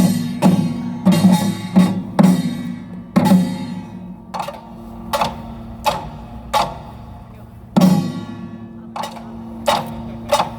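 Utdari samulnori percussion ensemble playing. The drums, small gong and large gong strike together in a slow, measured rhythm, and the gong rings on beneath the strokes. The strikes come thick at first, then spread out, with a heavy stroke near the end.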